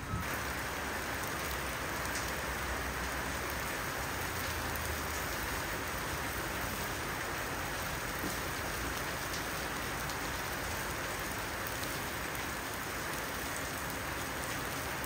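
Garlic and rice frying in oil in a wok, giving a steady sizzle.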